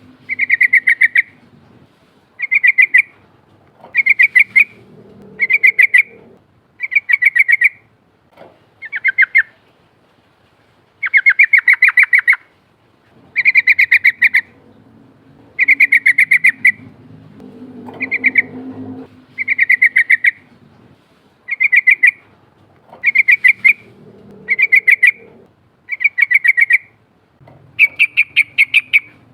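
Yellow-vented bulbul singing: short, rapid bubbling phrases repeated about every two seconds. Some phrases are longer and fuller than others.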